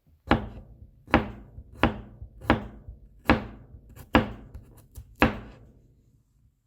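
Kitchen knife chopping garlic on a cutting board to mince it: seven sharp knocks, about one every three quarters of a second, with a few lighter taps between the later ones. The chopping pauses near the end.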